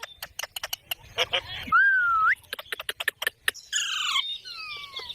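Pet green parrot calling: a whistled note that dips and rises about two seconds in, a short harsh chattering call near four seconds, and a falling whistle near the end, among scattered sharp clicks and taps.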